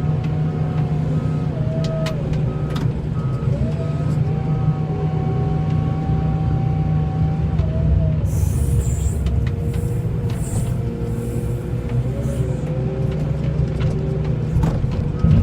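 Snow-plowing vehicle's engine running steadily, with a whine that rises and falls in pitch as it works. A regularly repeating beep sounds early on and again near the end, and a high hiss comes in for a few seconds midway.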